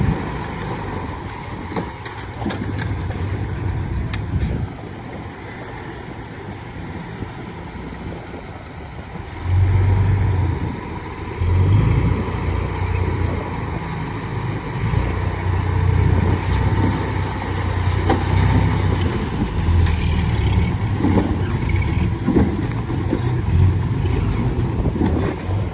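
Heavy diesel engine of earthmoving machinery running. It gets louder in surges from about ten seconds in, as if working under load.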